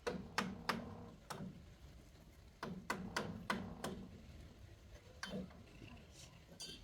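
A series of sharp, hard knocks, like a hand tool striking building material: four in the first second and a half, a quick run of five over about a second, then one more and a faint click near the end.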